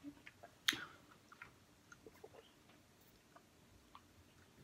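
Faint chewing mouth sounds with scattered small wet clicks, one sharper click about a second in.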